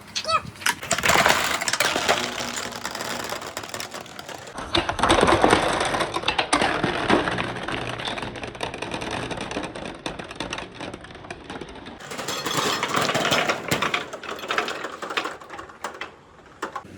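Marbles rolling and clattering down a handmade marble run, a dense stream of rapid clicks and rattles that changes abruptly twice.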